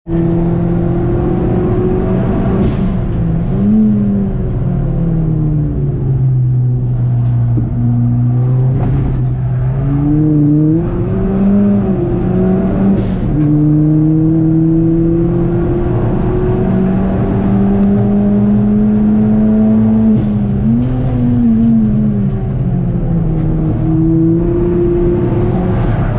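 Ford Fiesta ST with a VT330R conversion, heard from inside the cabin at speed on track. Its engine note climbs slowly along the straights and falls away for the corners, with a few quick rises and falls, over a steady rush of road and tyre noise.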